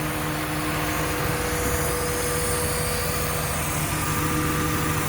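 Car engine idling steadily, warm from a test drive, a constant hum with no change in pitch.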